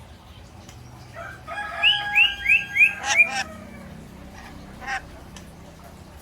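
Parrot calling: a quick run of four or five short, hooked, whistle-like calls about a second and a half in, then a single short call near five seconds.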